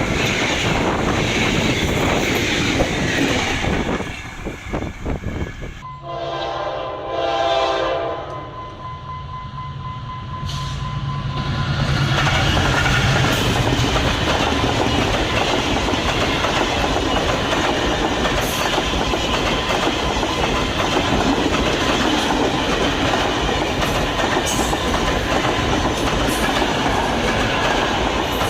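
Diesel-hauled passenger train passing, its wheels clattering over the rail joints, with the locomotive's horn sounding about six seconds in for two to three seconds.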